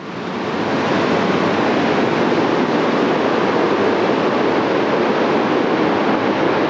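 Eurofighter Typhoon's twin jet engines making a loud, steady rushing jet noise that comes in abruptly at the start and builds over about a second, then holds level.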